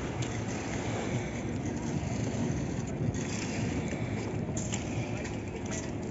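Construction machinery engine running steadily with a low hum, a few light clicks over it.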